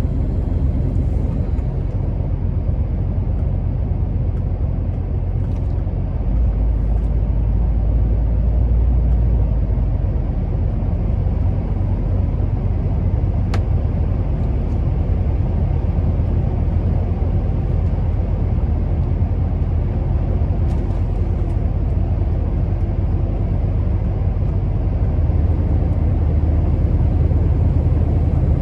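Scania R650's 16-litre V8 diesel truck engine running steadily under way, a deep low rumble with road noise. It swells louder for a few seconds about a quarter of the way in and again near the end.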